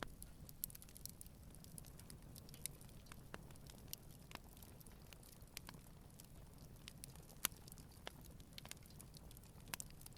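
Wood campfire crackling softly: scattered small pops and ticks, with one sharper pop about seven and a half seconds in.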